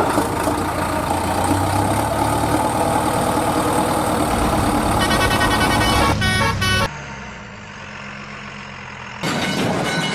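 Vehicle engine running, with a horn sounding in short toots about six seconds in. The engine sound drops away about seven seconds in and comes back near the end.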